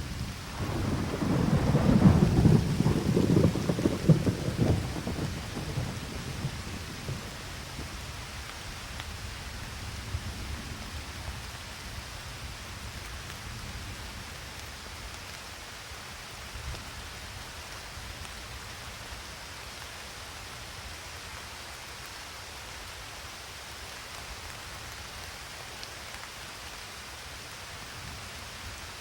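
A thunderclap rumbling loudly in the first few seconds and dying away, over steady rain falling throughout.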